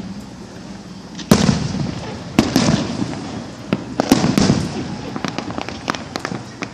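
Fireworks going off: a sharp bang about a second in and another near two and a half seconds, each trailing off, then a close cluster of bangs around four seconds and a run of smaller crackling pops near the end.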